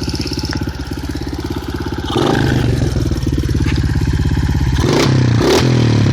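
Honda CRF70 pit bike's air-cooled four-stroke single, bored to 88cc and breathing through an FMF Powercore 4 exhaust, running at a steady idle. About two seconds in the throttle is opened and the engine holds a higher, louder note, with two short sharp cracks near the end.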